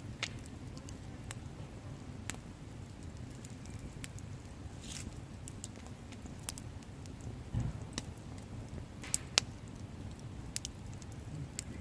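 Campfire of burning wood: a steady low rumble of the flames with sharp crackles and pops at irregular intervals, the loudest two close together about nine seconds in.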